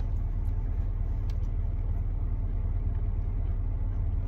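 Steady low rumble of a car idling, heard from inside the cabin, with a couple of faint clicks.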